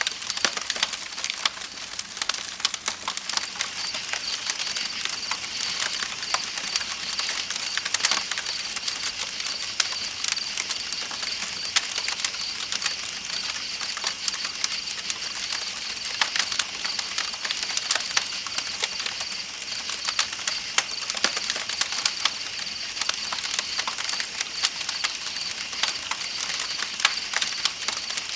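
Campfire crackling with frequent sharp pops and snaps, over a steady high trill of night insects and the even rush of river water.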